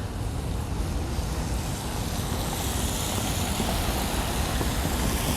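Wind buffeting the microphone with a steady low rumble, and a hiss that grows louder about halfway through.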